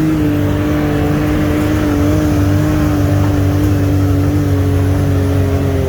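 Side-by-side UTV engine running under way, held at a steady pitch after a short rev-up just before.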